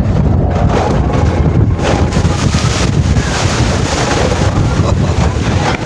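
Wind buffeting the microphone: a loud, steady rumbling rush with no clear pattern.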